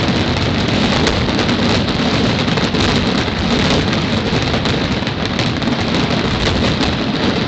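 Fireworks finale: a dense, continuous barrage of bursts and crackles that merges into one steady rumble.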